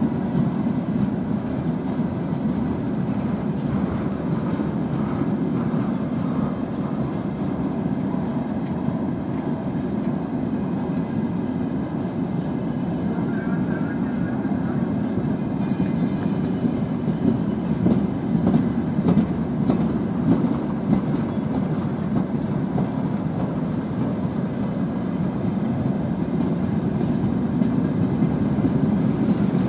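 Freight train of tank cars rolling past, a steady low rumble of wheels on rails, with scattered clicks in the second half.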